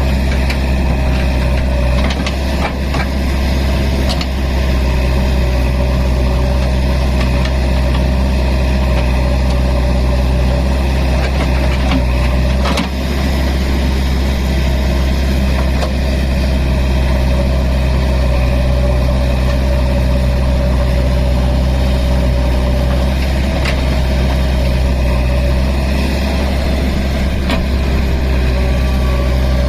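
Heavy diesel engine of a tractor or backhoe loader running steadily at low revs, with a few short knocks about two and a half seconds and thirteen seconds in.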